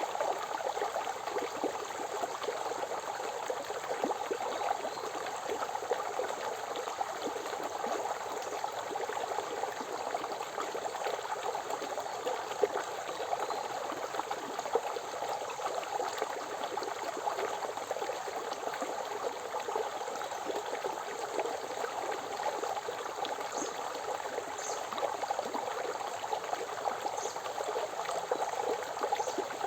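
Forest river flowing, a steady even rush of water. A few faint high chirps, likely birds, come in the last few seconds.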